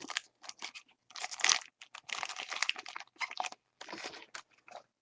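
Trading-card pack wrapper being torn open and crinkled by hand: a run of short, irregular crackles, loudest about a second and a half in.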